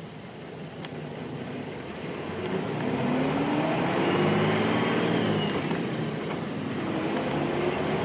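Nissan Diesel Space Runner RM bus's FE6 diesel engine pulling away: the engine note climbs and grows louder from about two seconds in, eases off briefly around six seconds in, as at a gear change, then climbs again.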